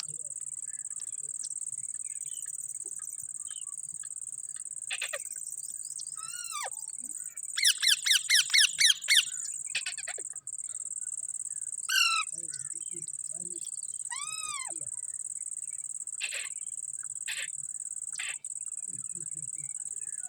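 Indian ringneck parrot calling: a quick run of about eight loud, harsh squawks about a third of the way in, then several single arching calls and a few short ones, over a steady high-pitched hiss.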